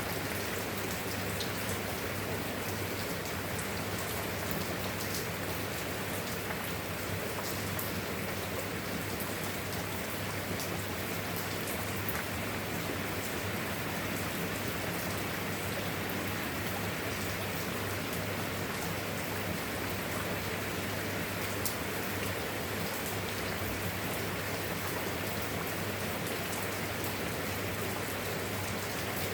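Steady rain falling, an even hiss dotted with many small, sharp drop ticks, with no change in strength.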